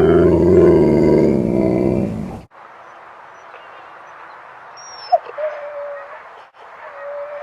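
A Siberian husky giving a loud, drawn-out growling vocalization that breaks off sharply about two and a half seconds in. Fainter short pitched calls follow near the end.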